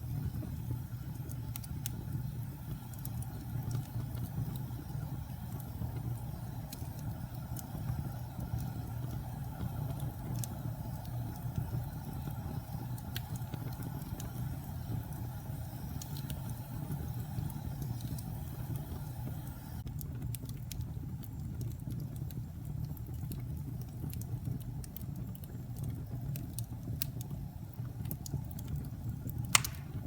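Fire burning in a fireplace: a steady low rumble with scattered small crackles and one sharp pop near the end.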